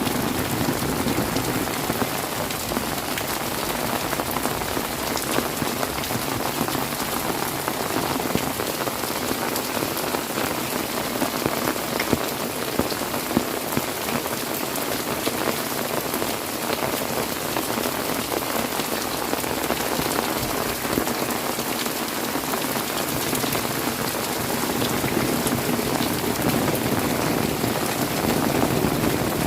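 Heavy tropical rain falling steadily, a dense wash of sound with many sharp individual drop hits, swelling a little near the start and again near the end.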